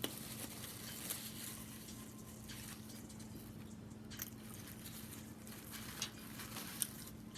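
A person chewing a mouthful of cheesesteak sandwich close to the microphone: soft mouth sounds with a few small sharp clicks spread through, over a faint steady hum.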